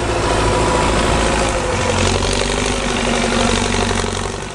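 Heavy vehicle engine running hard, a steady deep note with dense mechanical noise over it, easing off near the end.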